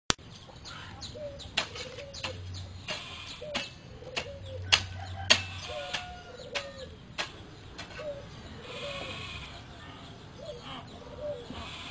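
Short, soft animal calls repeating about once a second, with scattered sharp clicks between them.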